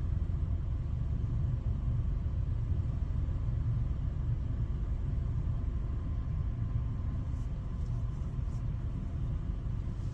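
Steady low rumble of vehicle noise, with a few faint ticks near the end.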